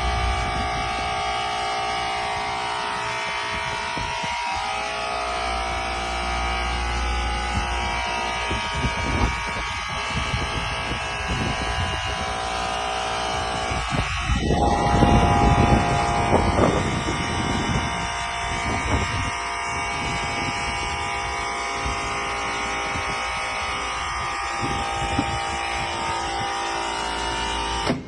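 Steady machinery running, a low rumble under several held whining tones, swelling louder about halfway through and cutting off abruptly at the end.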